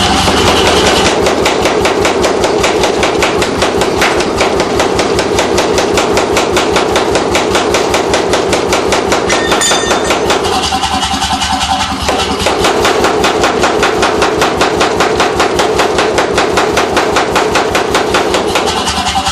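C41 pneumatic forging hammer striking in rapid, evenly spaced blows over the steady running of its motor and built-in air compressor. The blows ease for a couple of seconds past the middle, leaving the machine running, then resume.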